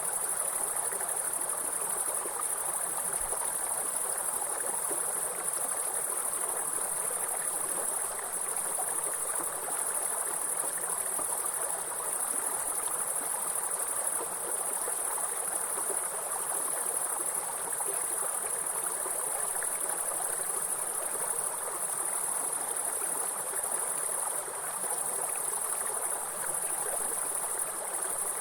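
A steady, high-pitched insect chorus over the even rush of running stream water.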